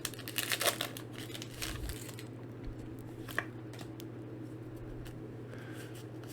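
Crinkling of a foil Pokémon booster pack wrapper and handling of cards, busiest in the first two seconds, then only a few faint clicks over a low steady hum.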